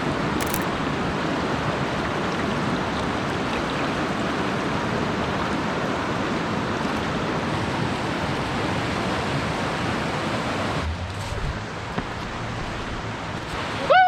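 Rushing water, a steady loud wash that drops to a quieter wash about eleven seconds in.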